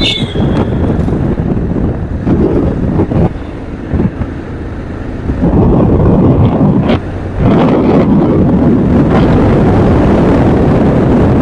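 Wind rushing over the microphone of a moving motorcycle, with the vehicle running beneath it. The rush eases for a couple of seconds about four seconds in, then comes back loud.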